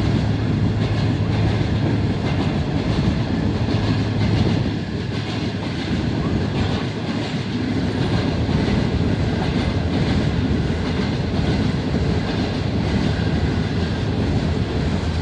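Greenline Express passenger train running past on the track: the steady rolling noise of its wheels and carriages, with a low hum that fades out about four seconds in.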